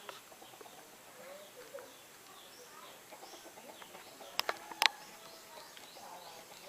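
Birds chirping: many short, faint chirps throughout. A few sharp clicks come a little past the middle and are the loudest sounds.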